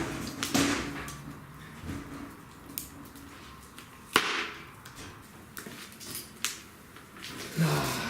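A few scattered sharp clicks and knocks, the loudest about four seconds in.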